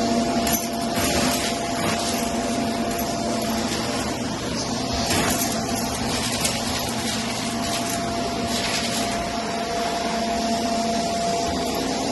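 Vacuum cleaner running steadily on carpet, a constant motor whine under a rushing hiss that swells now and then.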